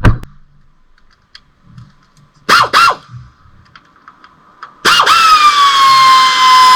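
A power tool working on a fastener: two short blips half a second apart, then from about five seconds in a loud steady run whose whine drops in pitch and then holds. Light clicks of metal parts come before it.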